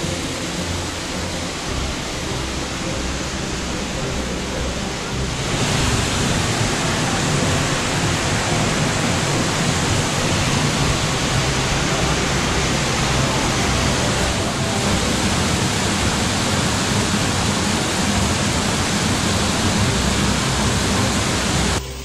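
Waterfall, Sgwd yr Eira, heard close up: a steady, dense rush of falling water. It gets louder about five seconds in and cuts off suddenly near the end.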